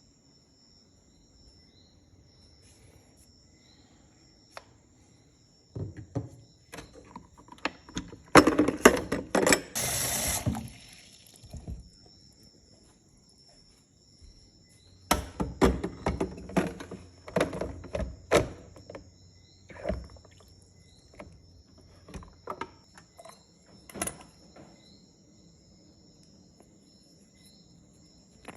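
Knocks and clatter of an espresso machine and its parts being handled, with a loud rushing burst of noise about eight to ten seconds in. Steady cricket chirring underneath.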